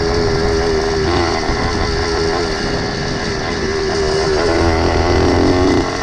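Small engine of a motorized bicycle running under way. Its note grows louder about four and a half seconds in, then drops back suddenly near the end.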